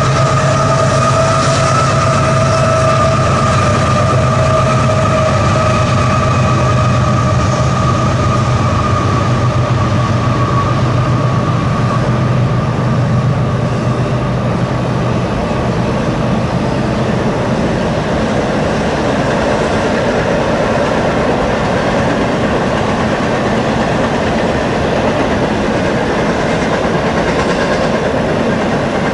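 A train rolling past: a steady hum fades out over the first half, leaving the continuous rumble and clatter of railcars over the rails.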